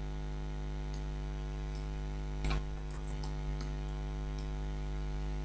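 Steady electrical mains hum with a few faint computer mouse clicks, the clearest about two and a half seconds in.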